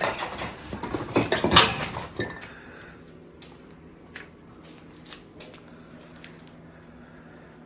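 A rattling metallic clatter for about two seconds, loudest near its end, then a few faint scattered clicks.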